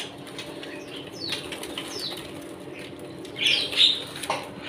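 Young white-rumped shamas (trotol) fluttering their wings in a cage, with short falling chirps and a louder flurry about three and a half seconds in.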